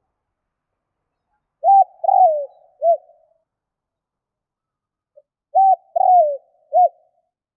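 Spotted dove (tekukur) cooing: two three-note phrases about four seconds apart, each a short coo, a longer falling coo, then a short final coo.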